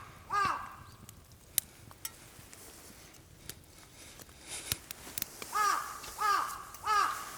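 A crow cawing: one caw, then after a pause a run of three harsh caws in quick succession, with a few sharp clicks in between.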